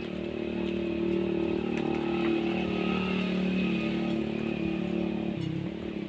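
A small engine running steadily with a few light clicks; its note changes briefly near the end.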